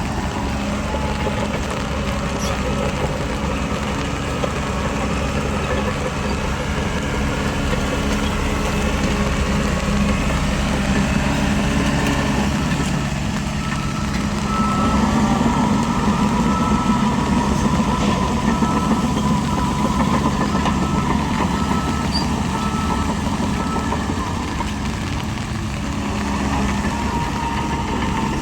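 Diesel engine of heavy earthmoving machinery running steadily, working harder and louder about halfway through. A faint high-pitched tone repeats in short dashes through the middle part.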